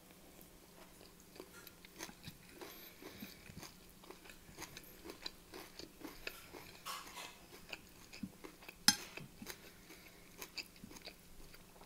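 Close-up chewing of a mouthful of beef-mince rice and cucumber: faint, irregular wet mouth clicks and soft crunching, with one sharper, louder click just before nine seconds in.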